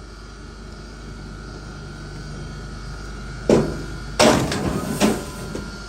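A steady low machine hum, with three sharp knocks about half a second to a second apart in the second half, the middle one followed by a short clatter.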